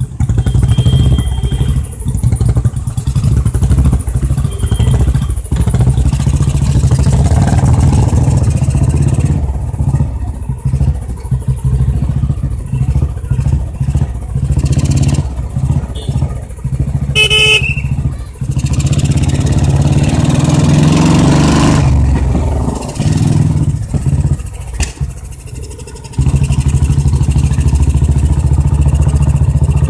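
Royal Enfield single-cylinder motorcycle with a loud exhaust running on the road. Its engine pitch rises as it revs up around twenty seconds in. A short horn blast sounds about seventeen seconds in.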